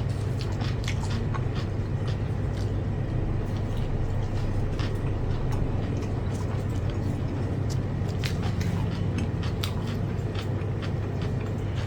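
Steady low hum of background noise with scattered small clicks and smacks from eating.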